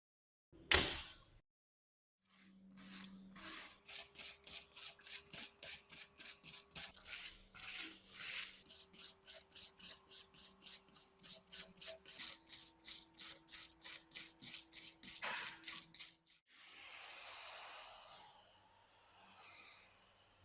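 A single knock, then a long run of even back-and-forth rubbing strokes, about three a second, of a hand tool working over a rusty metal part. The strokes stop, and a steady hiss follows near the end.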